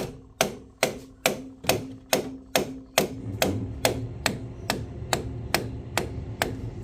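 Sharp knocks repeating evenly, a little over two a second, with a faint steady hum under the first half.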